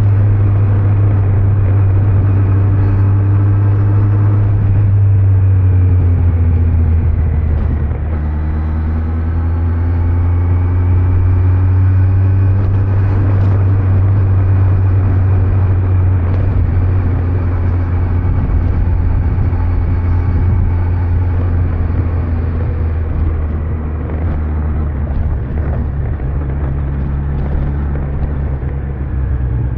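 Kawasaki Z900 inline-four engine under way with a steady low rumble. The engine note falls about seven seconds in, then climbs steadily again as the bike picks up speed.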